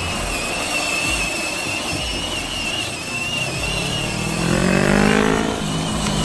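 A vehicle running with a steady high whine, revving up in pitch for a moment about four to five seconds in.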